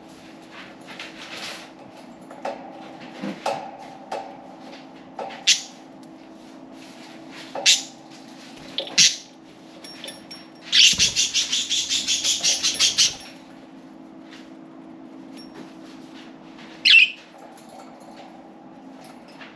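Budgerigars chirping in short, scattered calls, with a loud run of rapid harsh pulses lasting about two seconds midway. A steady low hum runs underneath.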